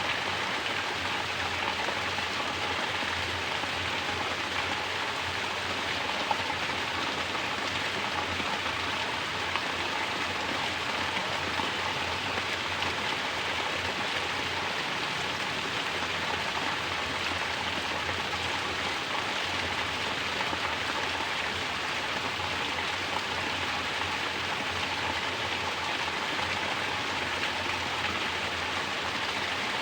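Mountain water pouring down in a natural shower and splashing steadily, an even hiss without a break.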